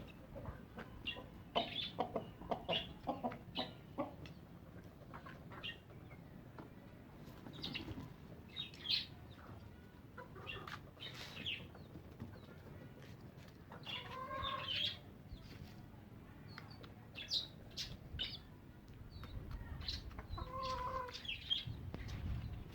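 Domestic chickens clucking and chicks peeping in short, scattered calls, with a few lower clucks about two-thirds of the way in and again near the end.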